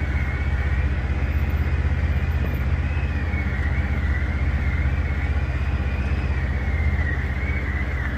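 Polaris Xpedition UTV engine running steadily: a deep, even drone with a thin, wavering high whine over it.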